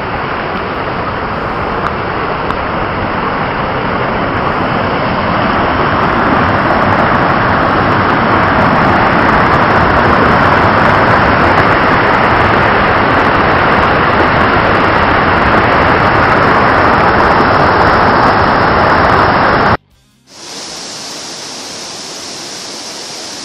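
Waterfall heard close up, a steady rushing roar that grows louder over the first several seconds. About twenty seconds in it cuts off abruptly, and a quieter, hissier rushing noise follows.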